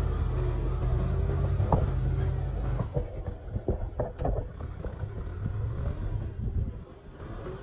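Kubota M6040 SU tractor's diesel engine running with a steady low drone; after about three seconds the drone eases and a run of irregular knocks and clatter sets in, and the level drops near the end.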